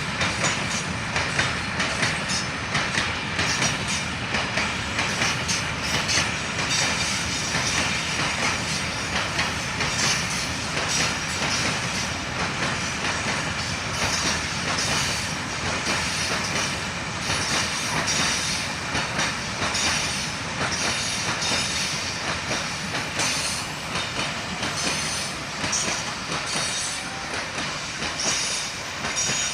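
Freight train wagons rolling past, their wheels clattering over the rail joints, with high squealing of wheels on the rails coming and going. It eases off a little near the end.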